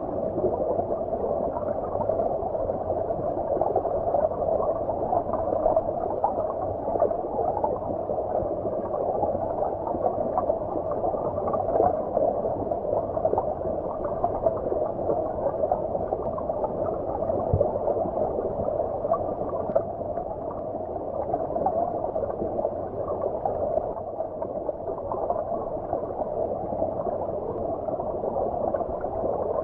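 Stream water flowing and gurgling, heard muffled as if from underwater: a steady, dull rushing with no high sounds.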